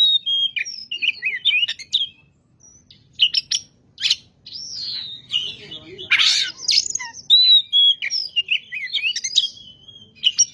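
Oriental magpie-robin (kacer) singing a varied song of clear whistles, quick rising and falling notes and short harsh chatters, with a brief pause about two seconds in.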